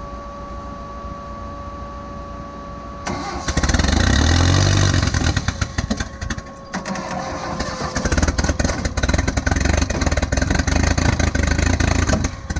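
Mitsubishi 4G63 turbo four-cylinder engine being test-fired for the first time on starting fluid, with no charge pipe or MAF fitted. After about three seconds it cranks and catches, runs unevenly for several seconds, and cuts out near the end.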